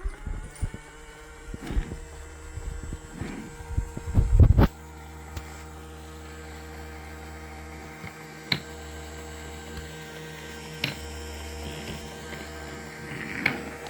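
Small robot cleaner running with a steady motor hum. Several knocks and thumps in the first few seconds, the loudest about four seconds in, then a couple of single sharp clicks over the hum.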